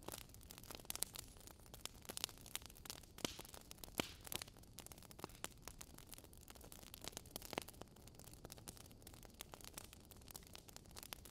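Wood fire crackling in a fireplace: irregular sharp pops and snaps over a soft low hiss, with one louder pop about four seconds in.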